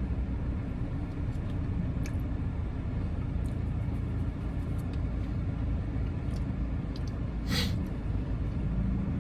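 Steady low vehicle rumble, with a short rustle about seven and a half seconds in.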